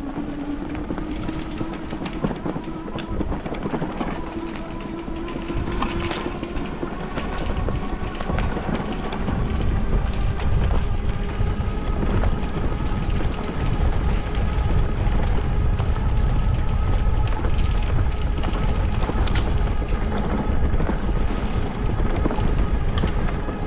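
Fat-tyre e-bike's electric motor whining, its pitch rising slowly as the bike speeds up, over wind rumble on the microphone and tyres rolling over rough grass. The rumble grows louder about nine seconds in.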